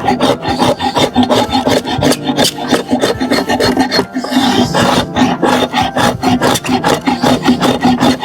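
A rasp or file worked on wood in quick, even back-and-forth strokes, about four or five a second, with a brief pause about four seconds in.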